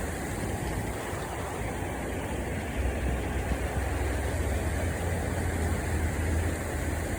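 Steady rushing of flowing water, with a deep low rumble underneath.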